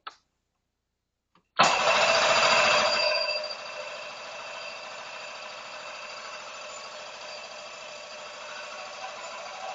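Mercury 60 HP four-stroke outboard turned over on its electric starter with the kill switch set so it cannot fire, cranking to pump fresh oil through after an oil change. It starts about a second and a half in, loud at first, then settles to a steadier, quieter whir.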